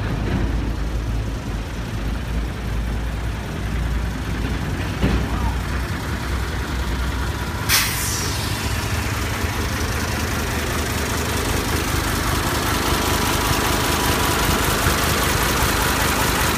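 Isuzu concrete mixer truck's diesel engine running steadily, with one sudden sharp burst of noise about eight seconds in, after which a hissing noise grows louder.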